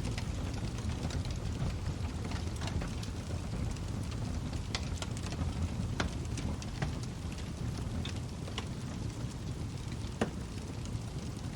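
Log fire crackling in a fireplace: irregular sharp pops and snaps over a steady low rumble of burning, with one louder pop about ten seconds in.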